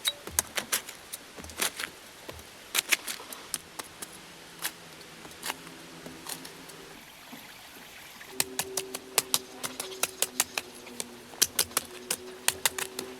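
A series of sharp, irregular taps and clicks of hard objects striking each other, coming faster about eight seconds in, with a faint steady hum underneath in the second half.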